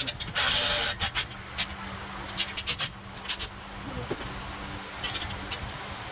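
A short, sharp hiss of escaping air lasting just over half a second, then a run of quick clicks and light metal taps from work on the truck, over a faint steady hum.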